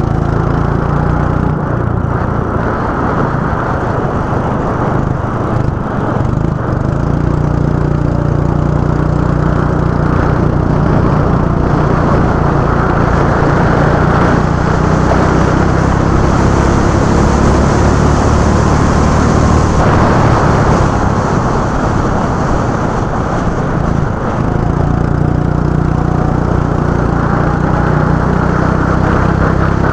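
Go-kart engines running steadily at speed, the engine note rising and falling in pitch as the karts lap the track.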